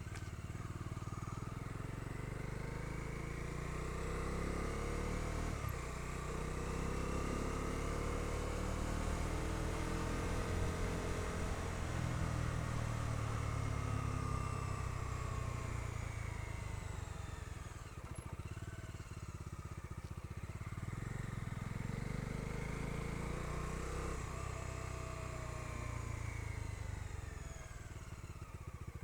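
Bajaj Dominar 250's single-cylinder engine running under way, its pitch rising and falling a few times as the rider accelerates and eases off.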